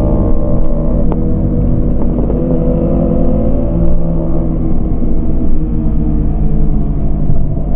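Yamaha MT-25's parallel-twin engine running steadily under way, its pitch rising and falling with the throttle.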